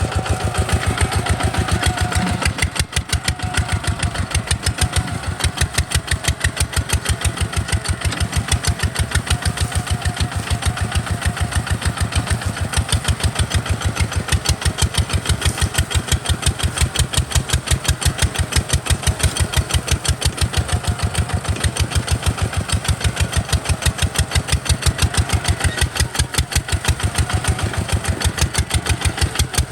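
Kubota RT140 DI single-cylinder diesel engine running at a steady speed, a fast, even chugging of firing pulses, with a brief drop in loudness about two to three seconds in.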